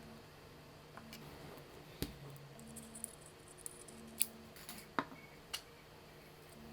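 A few scattered sharp clicks and taps, the loudest about four and five seconds in, over a faint steady hum.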